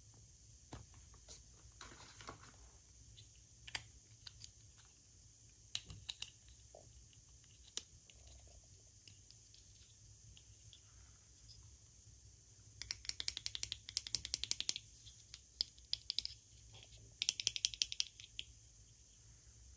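Small objects being handled during an unboxing: scattered sharp clicks, then two bursts of rapid clicking about two-thirds of the way through and near the end.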